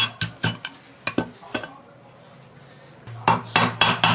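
Sharp metallic clinks and knocks of metal parts and tools being handled: a run of taps about three a second, a pause, then a quicker cluster near the end, over a low steady hum that starts about three seconds in.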